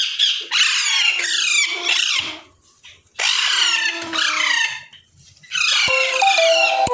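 Alexandrine parakeet chicks squawking, a rapid run of harsh calls that each sweep down in pitch, in three bouts separated by two short pauses.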